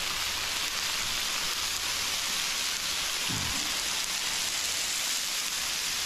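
Chicken thigh pieces sizzling steadily on a hot flat-top griddle.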